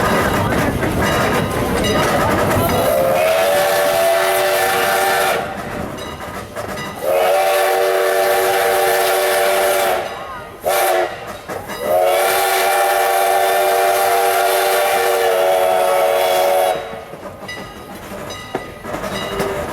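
Steam whistle of Strasburg Rail Road engine 89, a steam locomotive, sounding a chord of several tones in the grade-crossing pattern: two long blasts, a short one, then a final long one. Train running noise comes before the whistle, and wheel clatter comes after it.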